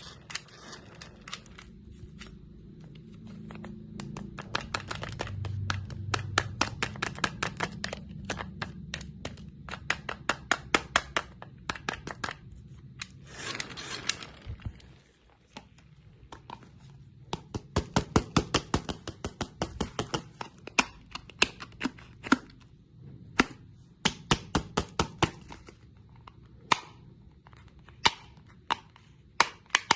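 Crunchy candy cracking: fast runs of sharp, crisp cracks, thinning out to single cracks near the end, with a brief rustle midway.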